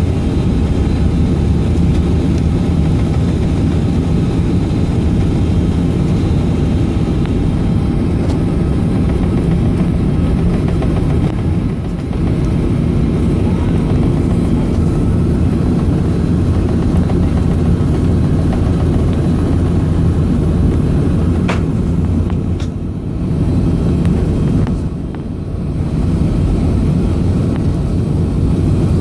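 Boeing 757-232's Pratt & Whitney PW2037 turbofan engines running at low power, heard from inside the cabin as a steady hum with a few faint steady tones. There is one sharp click a little after twenty seconds, and the level dips briefly twice near the end.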